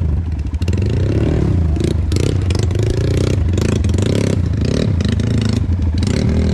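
Dirt bike engine running with the revs rising and falling, mixed with repeated clattering and knocking as the bike rides over a rough trail.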